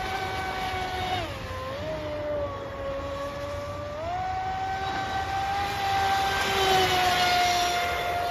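Radio-controlled boat's motor whining at a steady high pitch, dropping lower about a second in and climbing back up about four seconds in. A rushing hiss builds under it near the end.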